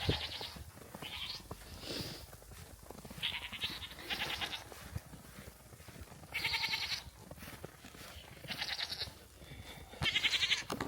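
Goats bleating: a run of short, high, quavering bleats, several voices calling one after another, loudest about six seconds in and again near the end.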